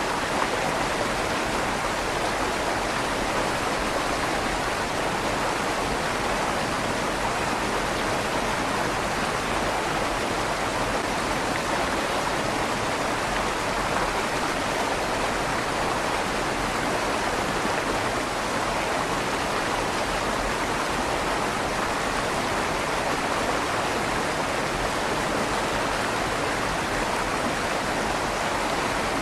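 River water flowing and rushing steadily under a stone bridge, its sound echoing inside the bridge's tunnel. The rush is constant, with no distinct splashes or changes.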